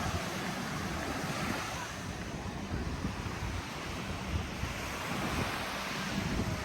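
Surf washing onto a sandy beach, with wind buffeting the microphone in an irregular low rumble.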